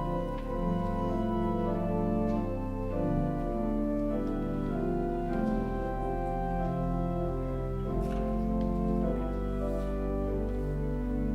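Organ playing slow, sustained chords over a held deep bass note, the harmony changing every second or so.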